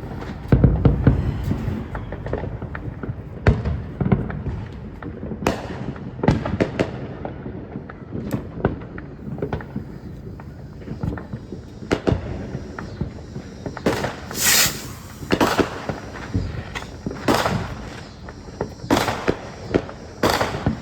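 Fireworks going off: a string of irregular bangs and cracks, with a heavier boom about half a second in and a quicker run of louder bangs in the second half.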